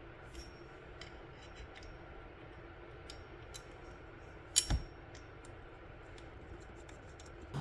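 Light scattered clicks and taps from handling the trampoline's handlebar parts and hex screws, with a sharper double knock about four and a half seconds in.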